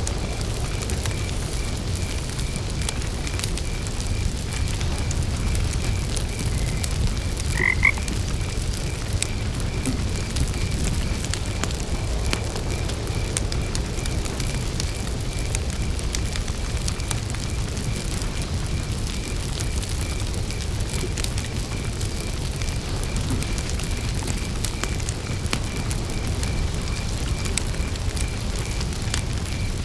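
Campfire crackling over a steady low rumble, with frogs croaking and an evenly pulsing high chirp of crickets. A short double call about eight seconds in is the loudest moment.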